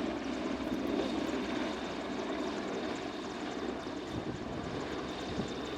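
AgustaWestland Merlin helicopter hovering low, its rotor and three turboshaft engines making a steady din with a thin, steady high whine above it.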